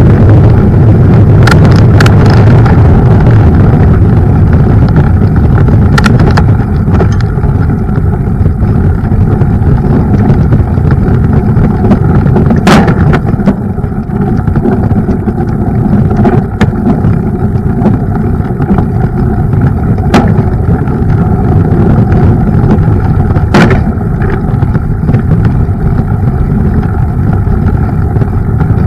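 Mountain bike ridden over a rough trail: a loud, steady rumble of wind and tyre noise on the camera microphone, broken by sharp knocks and rattles from the bike at irregular moments, about eight in all.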